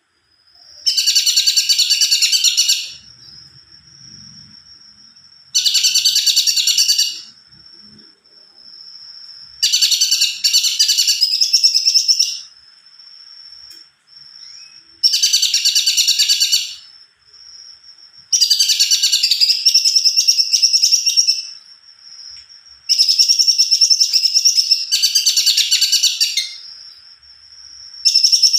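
A cungkok songbird singing in full voice: loud bursts of rapid, rolling trills, each lasting two to three seconds, repeated about every four to five seconds. A thin, steady, high-pitched tone carries on between the phrases.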